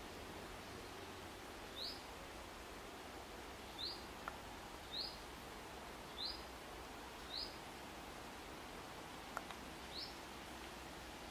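A small bird giving a short rising chirp, repeated every second or two, over a steady outdoor hiss.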